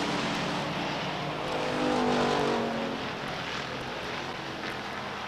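Stock cars racing around a short oval, engines running at speed as a group. One car's engine note stands out louder for a moment about two seconds in, then fades.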